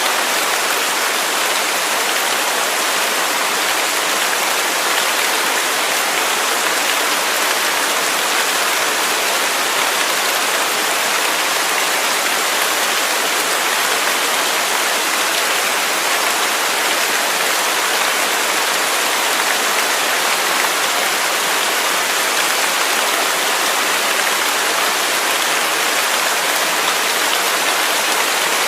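Waterfall: water falling steadily in an even, unbroken hiss, with little low rumble.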